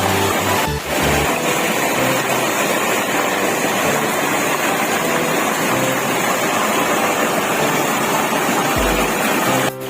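Falling water of a small freshwater waterfall rushing steadily close by, with a brief dip about a second in.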